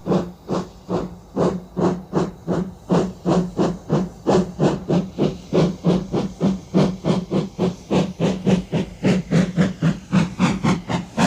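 Steam locomotive chuffing at a steady running pace, about four even puffs of exhaust a second, over a steady low hum.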